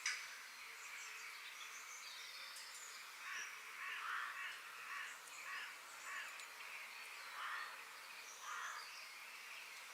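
Forest ambience with birds calling: a series of harsh calls repeating roughly once a second from about three seconds in, over scattered high chirps. A sharp click at the very start.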